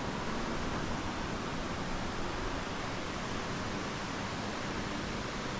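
Steady, even rushing of a small mountain river flowing.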